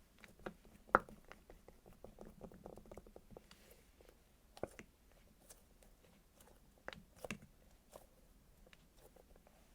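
Hands squeezing and handling squishy toys close to the microphone: soft crackling with scattered sharp clicks, the loudest about a second in and a few more around the middle and later.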